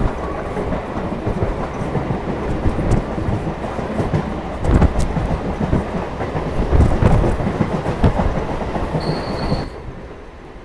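Chennai EMU electric local train running at speed, heard from on board: a loud steady rumble with wheels clattering over rail joints. Near the end there is a brief high squeal, and then the noise drops sharply.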